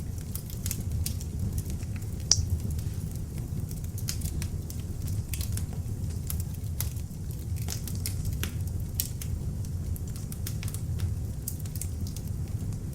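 Beech-wood log fire burning in an open fireplace: a steady low rumble of flames with frequent sharp crackles and pops, one louder pop about two and a half seconds in.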